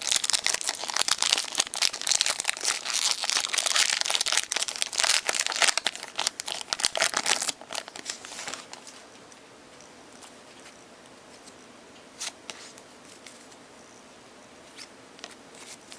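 Foil wrapper of a pack of trading cards being torn open and crinkled, a dense crackle for about seven seconds that stops abruptly, followed by a few faint clicks and rustles.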